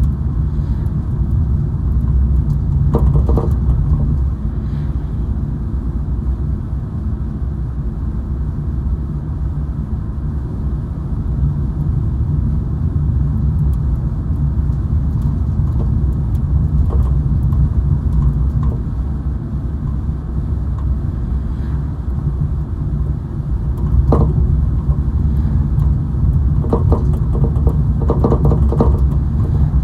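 Car driving along, heard from inside the cabin: a steady low road and engine rumble. A few brief knocks or rattles come in about three seconds in and again near the end.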